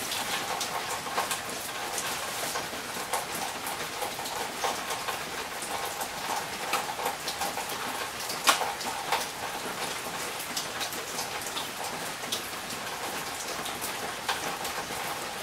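Steady heavy rain falling, with many close drops ticking on hard surfaces and one sharper tick about eight and a half seconds in.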